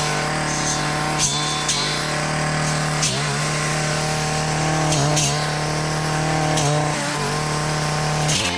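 Stihl gas brush cutter running at high speed while cutting weeds and brush. The engine pitch dips briefly several times as the blade takes load and then recovers, with scattered sharp ticks of the blade striking stems.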